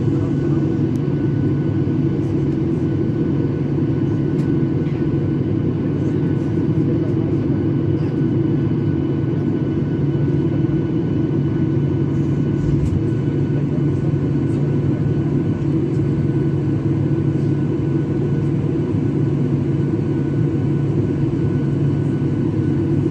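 Steady drone of an airliner cabin in flight: engine and airflow noise, mostly low, with a few faint steady whines above it.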